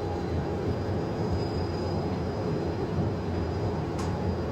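Steady cockpit noise of an Airbus A330-200F on final approach: a continuous low rumble of airflow and engines, with a faint steady high tone. A brief tick about four seconds in.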